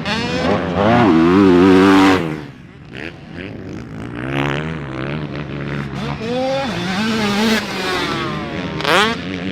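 Motocross dirt bike engine revving up and down as the throttle is worked, loudest in the first two seconds. It drops off, then picks up again, with a sharp climb in revs near the end.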